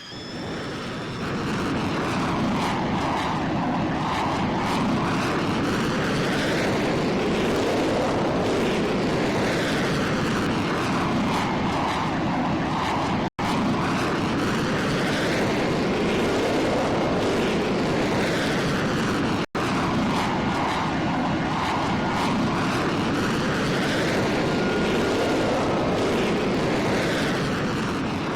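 Airplane passing low overhead: a loud, steady rush of engine noise that builds over the first couple of seconds, holds, and fades near the end, with a whooshing sweep rising and falling through it as the plane moves. The sound cuts out for an instant twice, about halfway and two-thirds through.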